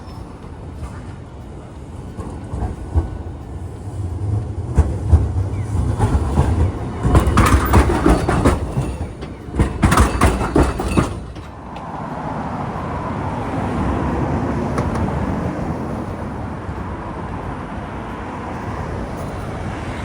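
Hiroshima Electric Railway streetcar passing close by, its wheels clattering over the rails, loudest from about four to eleven seconds in. A steadier, softer rumble follows.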